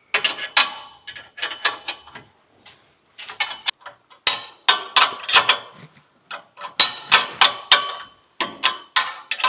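Hand ratchet wrench clicking in quick runs, with short pauses between strokes, as a bolt on the exhaust is tightened down.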